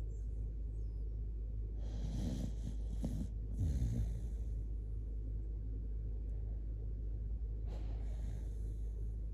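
Shiba Inu snoring in its sleep: three noisy breaths, about two, three and a half, and eight seconds in, the middle one the loudest, over a steady low hum.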